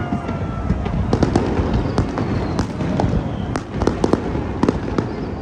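Fireworks display: a rapid, irregular series of sharp bangs and crackles over a continuous low rumble of bursting shells.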